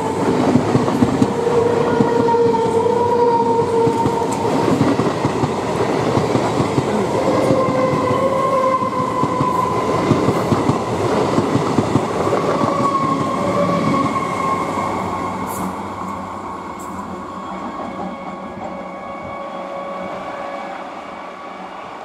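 Electric multiple-unit local train passing close at speed: a loud running rumble with the rapid clatter of wheels on the rails, which fades away over the last several seconds as the train recedes.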